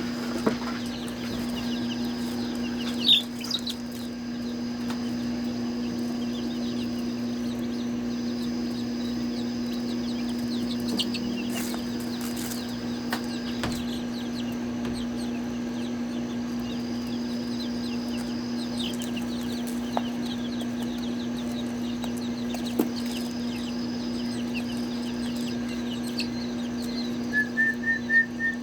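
Chickens clucking and peeping over a steady low hum. Near the end comes a quick run of repeated high chirps.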